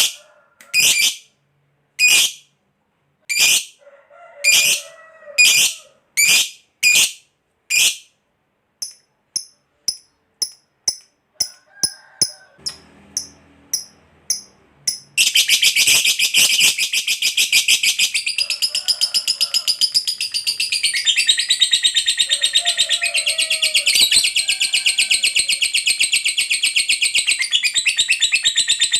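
Lovebird calling: sharp, high single calls about one a second, then quicker, softer pips. About halfway through it breaks into a long, unbroken, rapid chattering trill, the 'ngekek panjang' that keepers prize in a singing lovebird.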